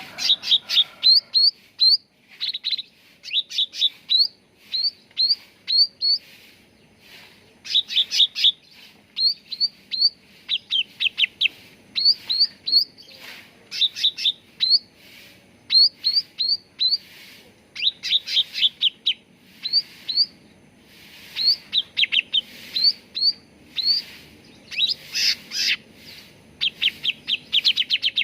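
Cucak ranting songbird calling: rapid runs of short, sharp, upward-flicking chirps, repeated in bursts of a few to several notes with brief pauses between them.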